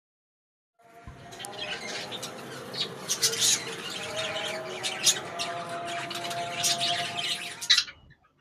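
Small pet parrots chirping and squawking in a dense run of sharp, high calls, starting about a second in and stopping shortly before the end.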